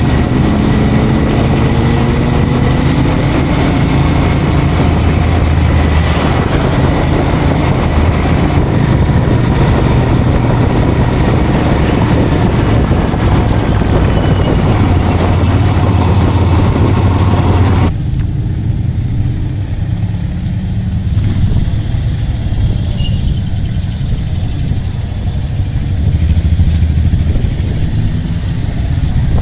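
Motorcycle engine running on the move, with wind and road noise, the engine pitch rising as it speeds up in the first few seconds. About two-thirds of the way through, the sound turns abruptly duller and a little quieter.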